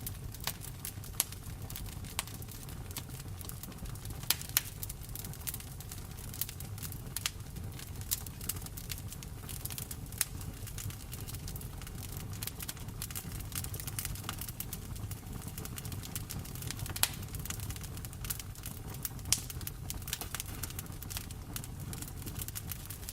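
Wood fire crackling in a fireplace, with irregular sharp pops and clicks, a few of them louder, over a steady low rumble and the hiss of rain.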